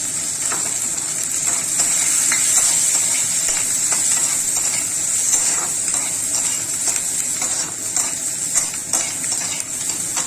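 Chopped capsicum and onion sizzling in hot oil in a kadai, a steady hiss, with a spatula clicking and scraping against the pan as they are stirred.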